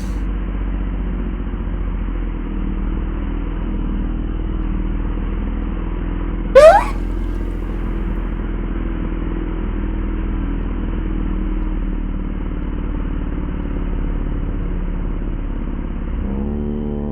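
An engine running steadily at an even idle, with one short, loud sound sweeping sharply upward in pitch about six and a half seconds in.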